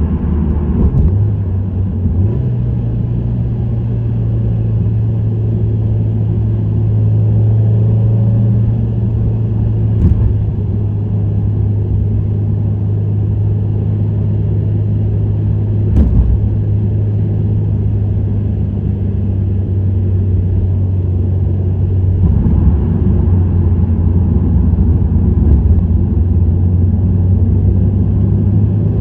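Subaru WRX STI (VAB) with an STI Performance muffler cruising on an expressway: its turbocharged flat-four drones steadily through the exhaust, with tyre and road noise underneath. The drone steps up about two seconds in and grows rougher and louder near the end. Two brief sharp knocks come about ten and sixteen seconds in.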